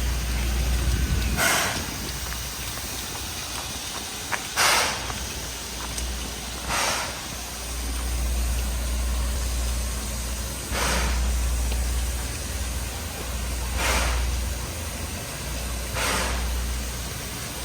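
Steam locomotive hissing in short bursts every two to four seconds, over a low steady rumble.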